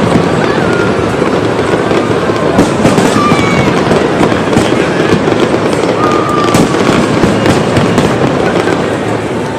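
Fireworks display: a dense, continuous crackle of bursts, with short whistles sliding in pitch through it and crowd voices underneath.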